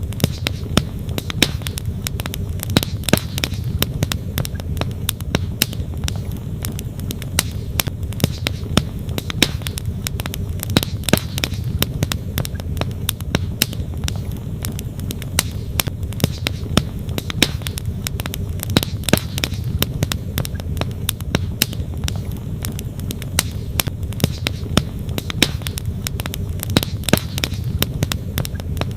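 Wood campfire crackling and popping in many irregular sharp snaps, over a steady low rush from the flowing stream beside it.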